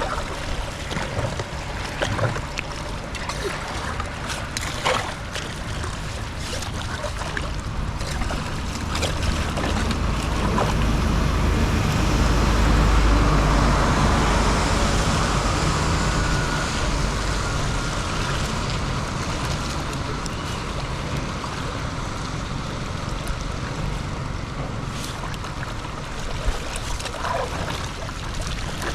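Water rushing steadily, swelling louder in the middle, with wind rumbling on the microphone and a few sharp knocks.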